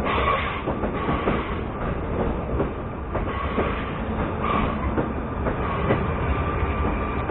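Train running on rails: a steady rumble with irregular clicks of the wheels over rail joints and a steady whine.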